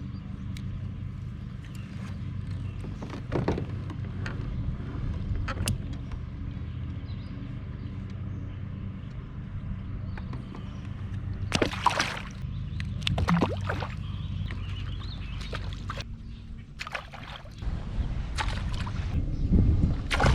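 Water sloshing and splashing around a kayak, with scattered knocks and handling noises, the strongest about twelve seconds in and near the end, over a steady low hum.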